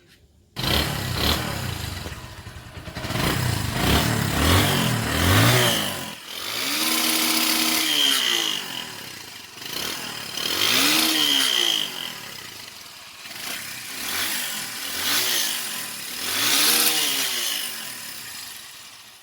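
Bajaj Discover 135 single-cylinder four-stroke engine running, coming on suddenly about half a second in, then revved up and let fall back several times. The sound is smooth, a sign that the carburettor fault has been cured: spacers under the needle had been making the engine run rich.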